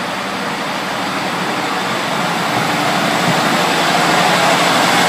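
Class 153 single-car diesel railcar's engine running under power as it pulls away from the platform, the noise building gradually.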